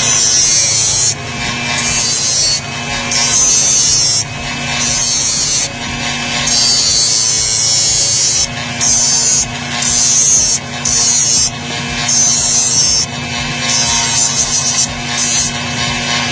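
Rasp filing a hoof in long repeated strokes, roughly one a second, each a harsh scraping with brief pauses between strokes.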